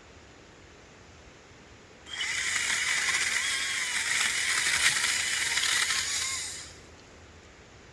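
ECHO DCS-2500T 56 V battery chainsaw running and cutting through a branch. It starts abruptly about two seconds in, runs steadily for about four and a half seconds, then dies away.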